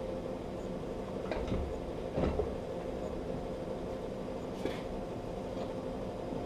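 A few separate clunks and knocks as the engine is shifted on the engine hoist, the loudest a little past two seconds in, over a steady hum.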